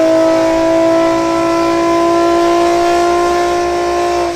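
Nissan 350Z's VQ35 V6 engine held at high revs in a dyno pull, a loud, steady note whose pitch climbs slowly. Right at the end the level dips as the engine comes off the pull.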